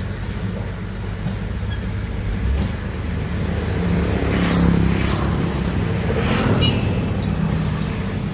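Heavy construction machinery's diesel engine running steadily under load, with two louder surges about four and a half and six and a half seconds in.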